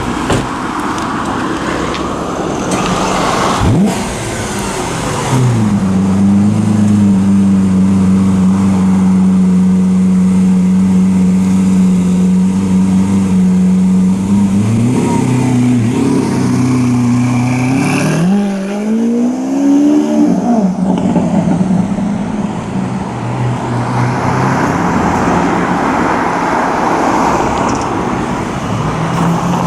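Car engine running at a steady idle, then blipped twice about 15 and 19 seconds in, its pitch rising and falling each time, before settling back to idle.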